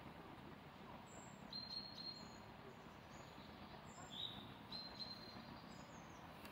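Small birds chirping in short, high calls every second or so, faint, over a steady background hiss of outdoor ambient noise.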